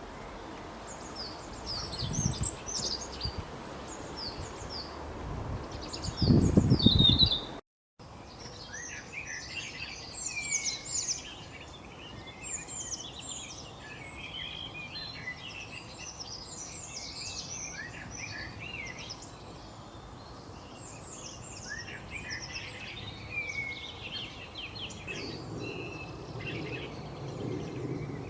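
Several small birds chirping and trilling at once in a busy chorus of short, quick notes. Low rumbling noise comes in twice in the first seconds, the loudest moment just before a brief dropout about eight seconds in, after which the chorus runs on densely.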